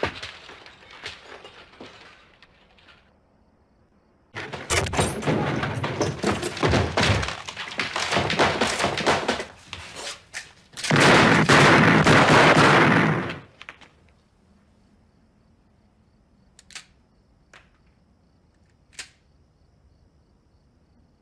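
Film soundtrack of a barrage of silenced gunfire: a dense clatter of bullet impacts, thunks and breaking. A louder stretch of crashing comes about eleven seconds in and lasts a couple of seconds, then it thins to a few isolated knocks.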